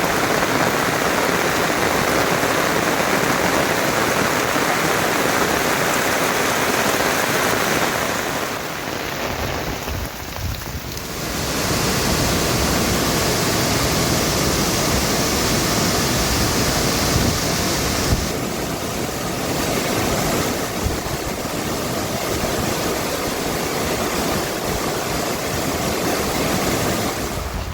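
Steady rushing noise of rain and running water, which changes in character about a third of the way in and again a little past halfway.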